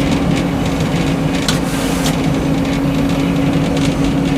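Frick sawmill running steadily with a constant low hum, with a few short knocks in the middle.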